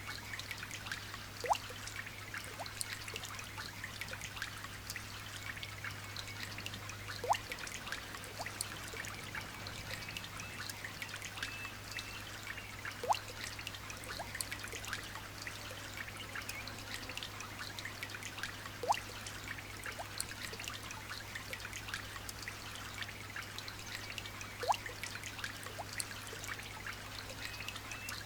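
Light rain pattering and trickling in a steady hiss of many small drops. A single louder drop plinks into water about every six seconds, each with a short rising blip.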